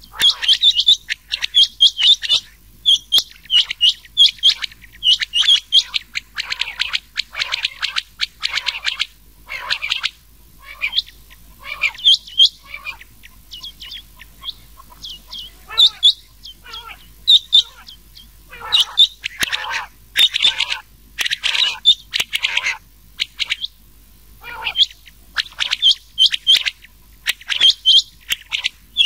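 Quail calling, rain quail mixed with common quail: short, sharp high notes in quick two- and three-note clusters, repeated every second or so, with louder, harsher calls among them.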